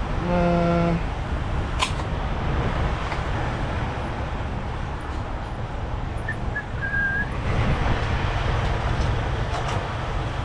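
Steady low rumble of an idling semi-truck engine. A short pitched blare under a second long sounds near the start, and a brief high chirp a few seconds later.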